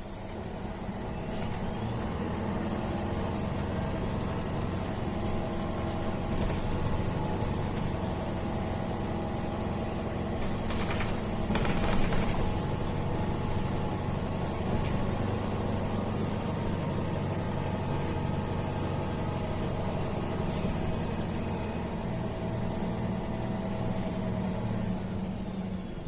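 MAN A21 city bus driving, heard from inside the cabin. The engine runs steadily under a drive whine that rises in pitch as the bus gathers speed, holds, then falls near the end as it slows. A brief louder rush of noise comes a little before halfway.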